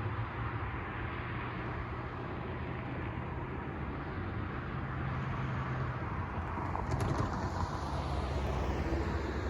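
Low, steady engine hum over a haze of outdoor noise, growing slightly louder about halfway through.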